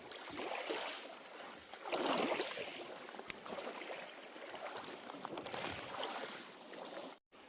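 Water splashing and lapping in swells about every one and a half to two seconds, cut off abruptly near the end.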